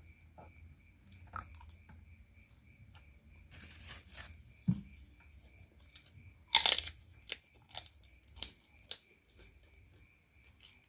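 Food packaging tearing and crinkling, with the loudest rip a little past the middle, followed by a few sharp crunchy snaps.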